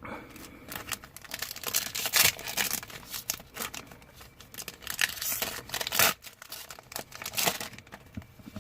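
Foil Pokémon booster pack wrapper being torn open and crinkled: a run of irregular crackling rips.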